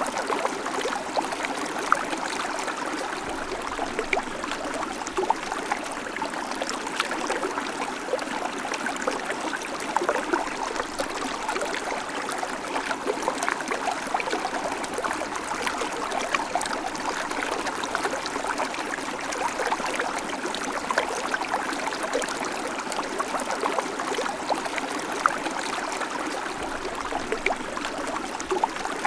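A shallow babbling creek running over stones, a steady rush of water sprinkled with many small splashes and gurgles.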